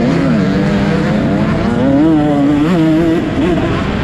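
Several motocross bike engines running hard on track, their pitch rising and falling again and again as riders open and close the throttle.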